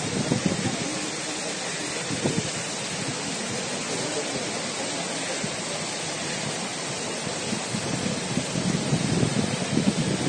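Steady rushing noise of heavy rain and running floodwater, with wind buffeting the phone's microphone more strongly over the last couple of seconds.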